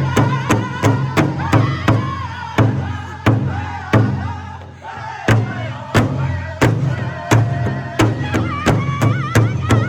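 Powwow drum group singing together over a steady unison beat on a large powwow drum, about three strikes a second; the beats slow and thin out in the middle, then pick up again.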